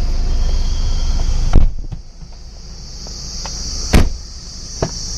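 Doors of a 2012 Mahindra Scorpio being handled: a loud door thump about one and a half seconds in, another about four seconds in, and a lighter click near the end. Crickets chirr steadily throughout.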